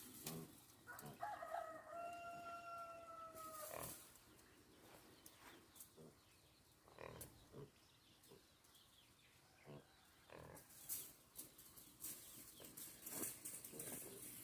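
A rooster crowing once, a single held call of about three seconds. Scattered faint knocks and clicks follow it.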